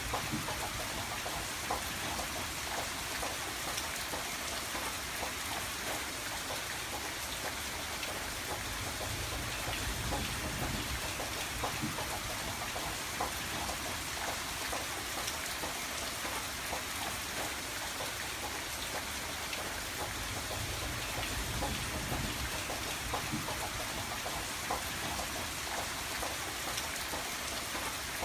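Steady rain on a window pane, many separate drops ticking through an even hiss. A low rumble swells and fades twice.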